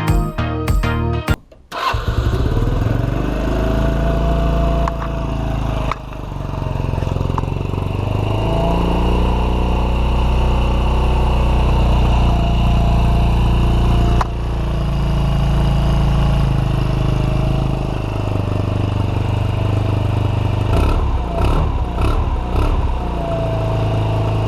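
Yamaha Majesty 125 scooter engine starting through a Leovince 4 Road exhaust, then running steadily, with its pitch changing a few times. Music plays briefly before the engine starts.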